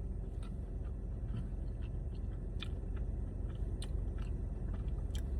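A person chewing a cookie with melty chocolate inside, faint irregular mouth clicks over a steady low rumble.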